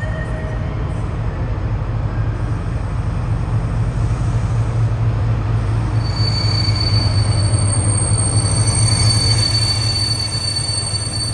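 A train running with a loud, steady low rumble; about halfway in, a thin, high, steady metallic squeal from its wheels joins it and holds on.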